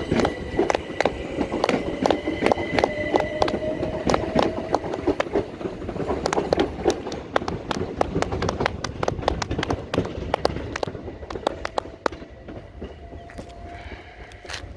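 Electric train wheels clattering over rail joints and points, a rapid irregular run of sharp clicks with a faint, slowly rising motor whine beneath. The clicks thin out and grow quieter after about twelve seconds.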